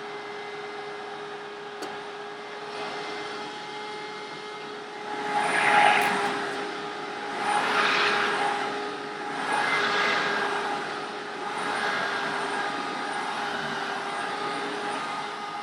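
A Hoover WindTunnel self-propelled upright vacuum cleaner running: a steady motor hum with a whine. It swells louder four times, about two seconds apart, near the middle.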